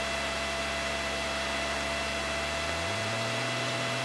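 Steady hiss and electrical hum on an aircraft intercom audio feed, with several fixed whining tones over it. A low drone steps up slightly in pitch about three seconds in.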